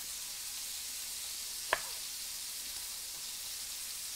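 Steady sizzle of pork belly slices frying in a pan. About two seconds in, one short knock as a chef's knife cuts through a calamansi and strikes the cutting board.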